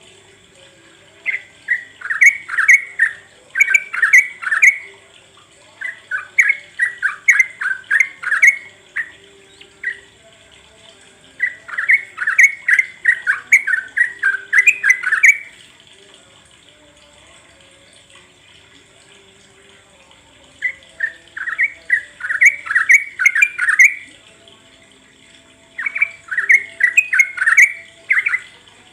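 Yellow-vented bulbul (trucuk) song: bursts of rapid, bubbling chattering notes, six phrases of one to four seconds with pauses between, the longest pause of about five seconds in the middle.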